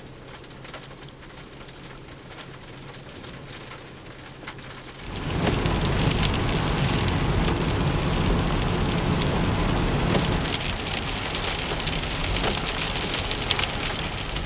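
Rain falling: a light patter at first, then a much louder, dense downpour hiss that comes in suddenly about five seconds in and holds steady.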